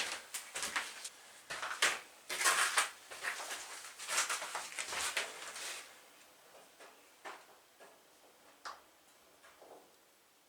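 Rustling and clattering of objects being handled, busiest in the first half, then a few scattered clicks and knocks.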